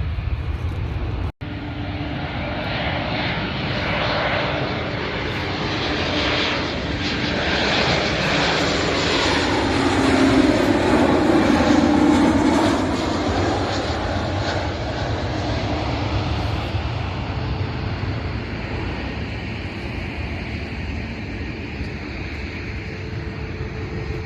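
An airliner passing near the airport: its engine roar builds, peaks about halfway through with pitch glides as it goes by, then slowly fades.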